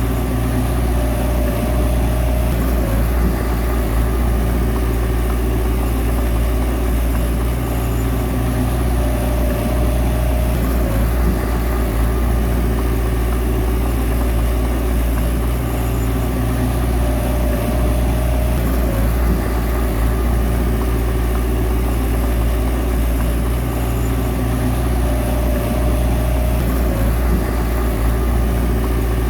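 Bulldozer's diesel engine running steadily, a constant low drone. A fainter higher tone rises over it for a second or two about every eight seconds.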